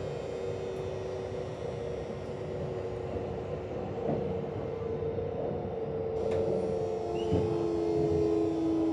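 VVVF traction inverter and motors of a Kintetsu 1026-series train heard from inside the car, running with steady whining tones over a low rumble, one tone sliding lower in pitch near the end as the train slows for the station under regenerative braking. A hoarse, groaning noise mixed into the normal inverter sound is, to the owner, the sign of a deteriorating inverter.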